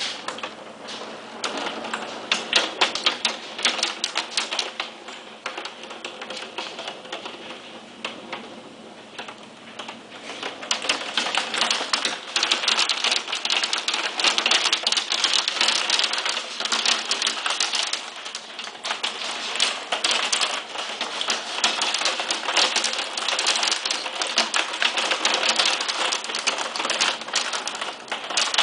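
Hailstones of about 1–2 cm clattering down with heavy rain: a dense, irregular patter of sharp hits that grows heavier about ten seconds in.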